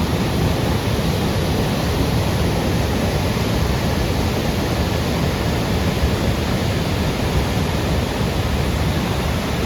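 Steady, loud roar of Tumalo Falls, a waterfall plunging into Tumalo Creek: continuous rushing water, heaviest in the low range.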